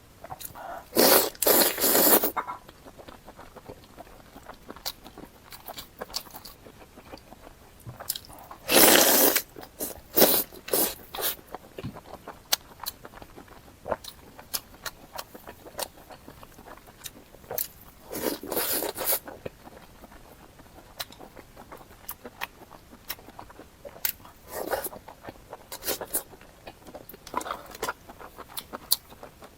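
Close-miked eating of crunchy food: several loud crunchy bites, with chewing and small mouth clicks in between.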